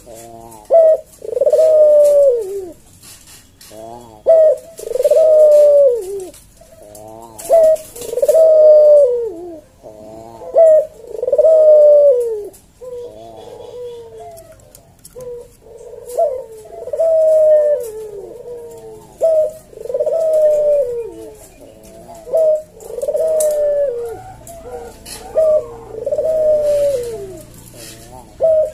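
Puter (ringneck or Barbary dove) cooing over and over. Each coo starts with a short clipped note, then swells and falls, and comes every second and a half or so. Quick rippling notes fall between some coos.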